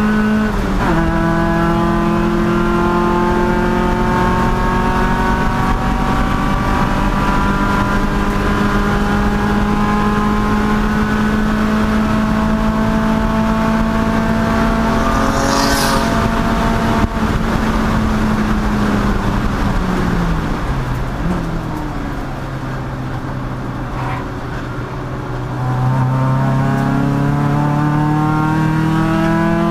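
Race car engine under hard acceleration, its pitch climbing slowly through a long pull after a shift near the start. It then falls away as the car slows for a corner, runs quieter for a few seconds, and picks up again as the car accelerates near the end.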